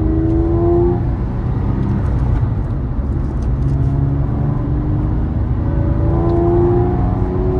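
2007 Porsche 911 Carrera 4S's 3.8-litre flat-six with the sport exhaust open, pulling under acceleration over a deep, steady rumble. The engine note rises in pitch at the start, eases off, then climbs again from about five and a half seconds in.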